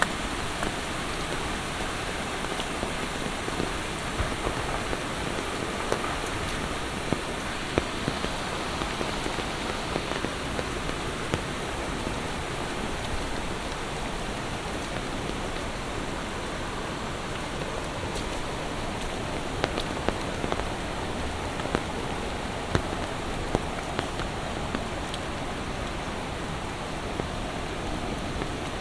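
Steady monsoon rain: an even hiss of rainfall with scattered sharper ticks of individual drops hitting nearby surfaces.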